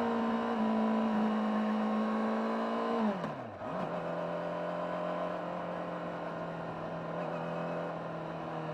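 Honda CBR600RR inline-four engine heard on board through its stock exhaust, running at a steady note. About three seconds in, the note dips sharply and briefly quietens, then settles at a lower steady pitch that sags slightly near the end.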